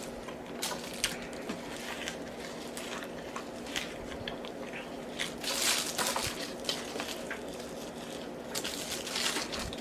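Close-up eating sounds of a person chewing fast food with the mouth open: irregular wet smacks, clicks and crunches, over a steady low hum.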